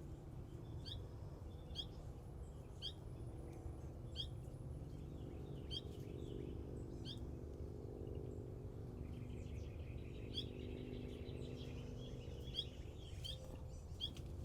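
A small bird gives short, sharp chirps about once a second, with a buzzy run of rapid notes in the middle: the calls of a fledgling songbird near its parent. A steady low hum runs beneath.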